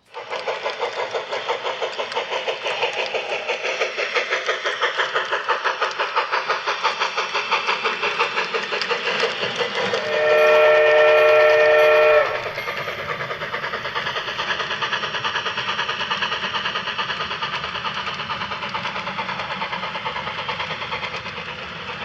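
Steam locomotive working with rapid, even exhaust chuffs. About ten seconds in it sounds a chime whistle for about two seconds, the loudest part, then keeps chuffing a little quieter.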